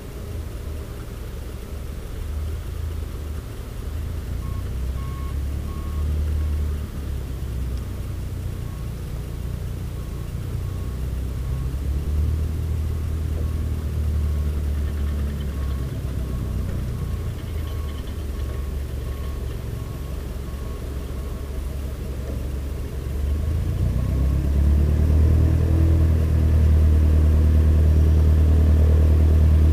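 Cessna 172's piston engine running at low power, a steady low hum that grows louder about three-quarters of the way through as the power comes up.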